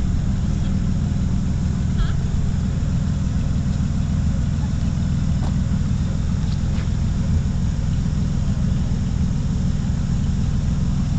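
A vehicle engine running steadily as a constant low rumble, with no revving.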